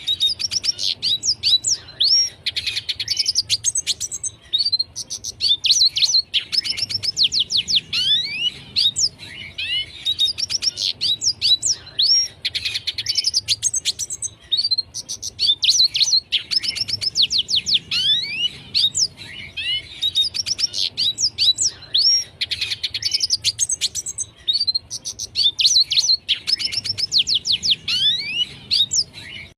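Red siskin singing continuously: a long, rapid twittering song of high chirps and quick sweeping notes, in phrases that follow one another every few seconds with only brief pauses.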